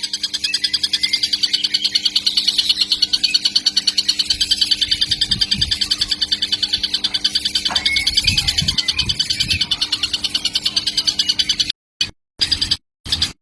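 Young kingfisher calling in a rapid, even run of short high notes without pause. Near the end the calling cuts out in several short gaps.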